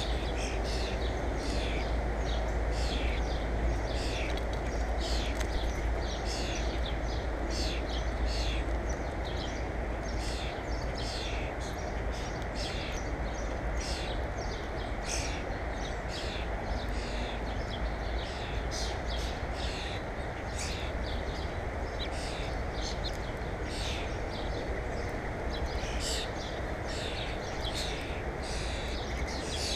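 Small birds chirping over and over, short high chirps about one or two a second, over a steady low rumble.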